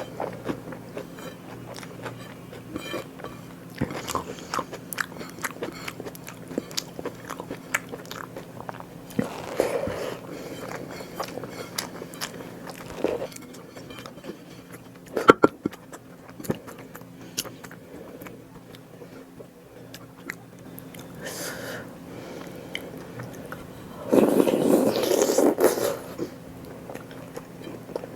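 Close-miked person eating: chewing and biting food, with scattered crisp crunching clicks and one sharp click about halfway through. A louder, denser stretch of noise lasts about two seconds near the end.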